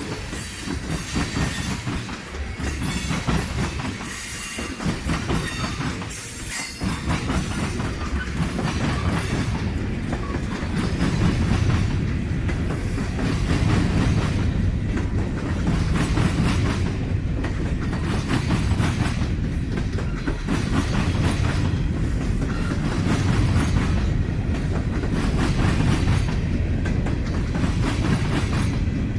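A train passing by, its wheels clicking over the rail joints in a steady rhythm over a continuous rumble, getting louder about ten seconds in.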